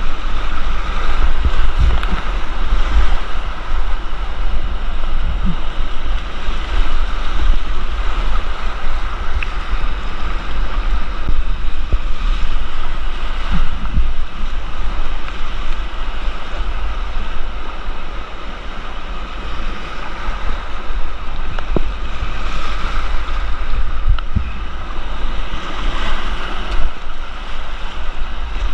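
Whitewater rushing steadily around a kayak, with a heavy low rumble of water and wind buffeting the point-of-view camera's microphone. A few short knocks sound now and then.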